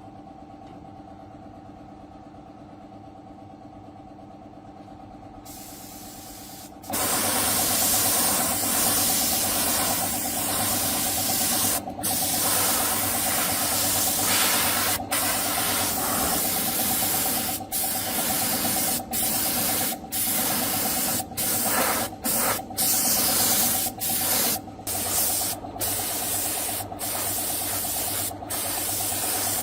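Steady hum of a running machine, then from about seven seconds in a loud hiss of compressed air from an air tool in long bursts. Each burst is cut by brief breaks where the trigger is let go.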